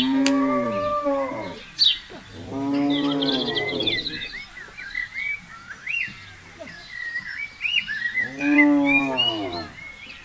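Cow mooing three times, each a long low call, with small birds chirping and twittering between the calls.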